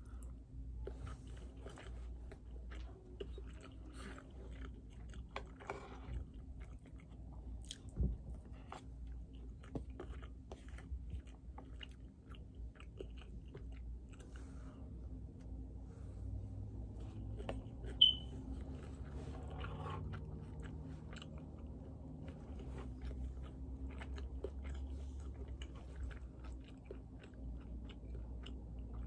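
A person chewing a spoonful of rice, with faint, wet mouth clicks. One brief sharp click sounds about eighteen seconds in.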